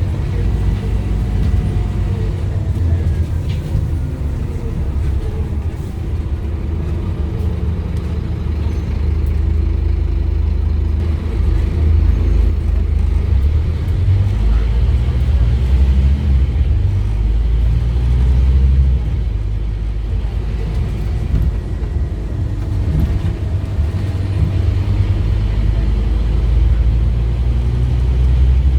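Scania DC9 nine-litre five-cylinder diesel of a Scania N230UD OmniCity double-decker bus running under way, driving through a ZF Ecomat automatic gearbox. The engine note climbs and falls as the bus accelerates and eases off, swelling over several seconds in the middle and dropping back a little after that.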